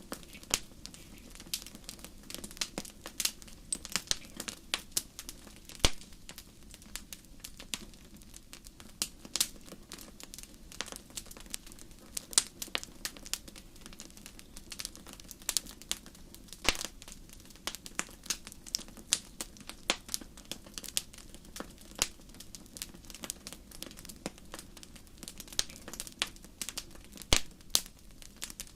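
Wood fire burning in a fireplace, crackling with irregular sharp pops and snaps, several a second at times, over a faint steady low rumble.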